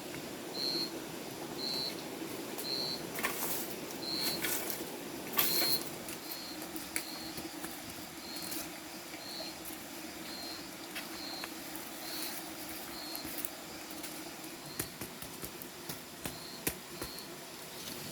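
Forest ambience: a short, high pip call repeating about once a second, with scattered sharp taps and knocks from handling and working materials.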